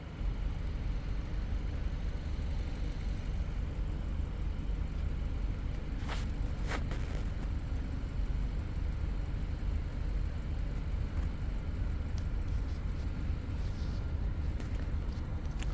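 Steady low rumble of outdoor background noise, with two short clicks a little after six seconds in.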